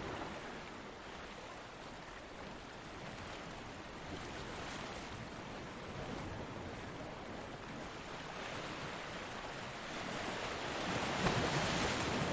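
Ocean surf washing onto a beach: a steady rush of noise that swells as a wave breaks near the end.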